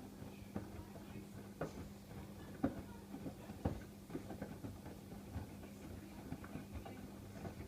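Miele WKF120 front-loading washing machine running a wash: irregular soft knocks and clicks of the load tumbling in the drum over a steady low hum, with two louder knocks a little under 3 and 4 seconds in.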